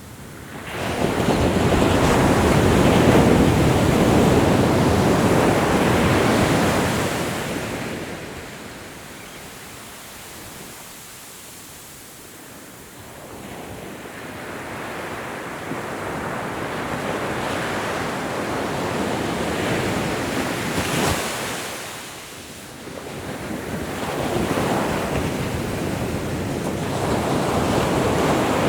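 Ocean surf: waves breaking and washing in, swelling and ebbing slowly. A loud wash fills the first several seconds, then a lull, then the surf builds again, dips briefly and rises once more near the end.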